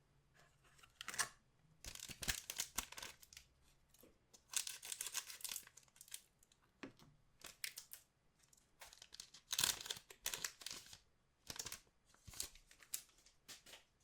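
Trading-card pack wrappers being torn open and crinkled by hand, in a string of irregular short rustling bursts with brief pauses between them.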